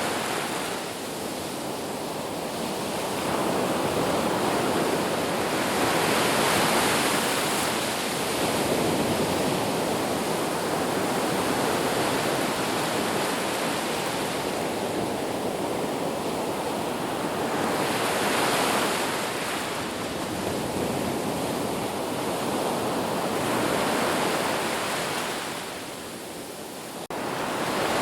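Sea waves breaking and washing ashore, a continuous rushing surf that swells and ebbs about every five to six seconds. There is a brief sudden break near the end.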